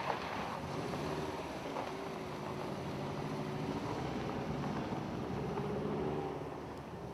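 A car engine running at varying revs, its pitch wavering up and down and then fading near the end, with wind noise on the microphone.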